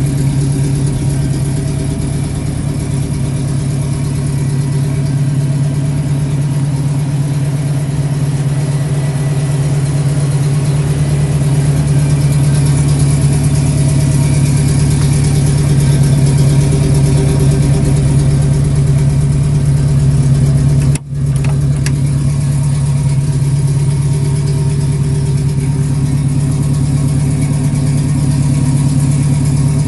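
1965 Ford Mustang GT's 289 cubic-inch V8 idling steadily, with a brief drop-out about two-thirds of the way through.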